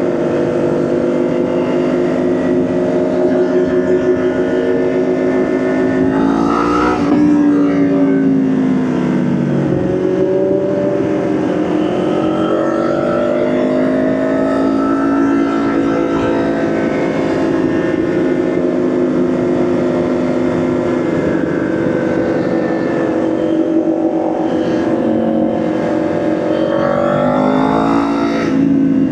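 Motorcycle engine running while riding, steady for long stretches. Its pitch climbs sharply as the throttle opens about six seconds in, dips, and climbs again near the end.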